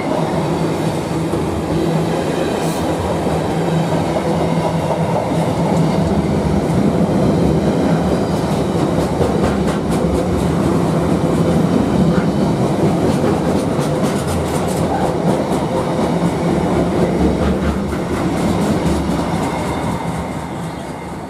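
Container wagons of a freight train rolling past close by: a steady, loud rumble of wheels on rails with many sharp clicks of wheels over the track, fading near the end as the last wagon goes by.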